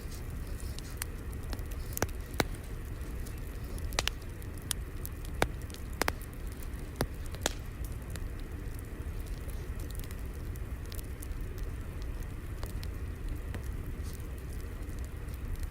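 Wood fire crackling: a steady low rumble of flames with scattered sharp pops and snaps, a few louder ones in the first half.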